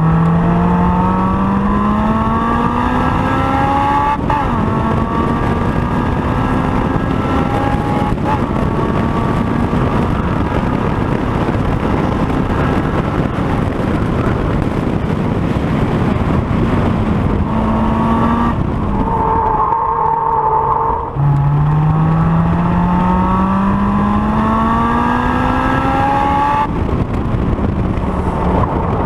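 Honda S2000's four-cylinder engine pulling hard on track, its pitch climbing in long sweeps through the revs with quick gear shifts between them. Around two-thirds of the way in it drops off briefly on a lift before it rises again.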